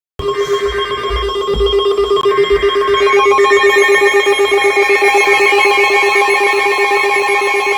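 NOAA Weather Radio alert going off: a steady alert tone layered with several weather-radio receivers' own alarm beeps, one low and rapidly pulsing, all starting abruptly out of silence. It signals that a warning broadcast is about to be read.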